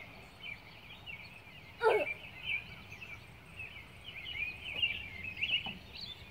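Small birds chirping and twittering in quick, irregular short notes, with one louder short cry that falls steeply in pitch about two seconds in.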